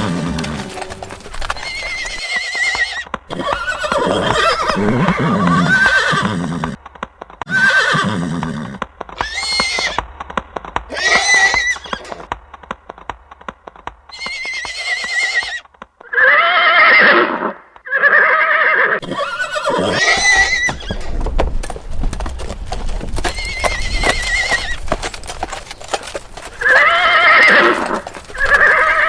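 Horses whinnying again and again, each call a shaky, wavering neigh, with the clopping of hooves between the calls.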